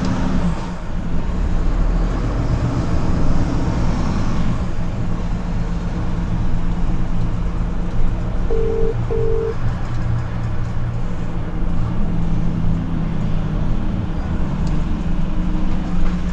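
Truck cab noise while driving: the diesel engine drones steadily under road and tyre noise. About halfway through come two short beeps from the hands-free phone as a call is placed.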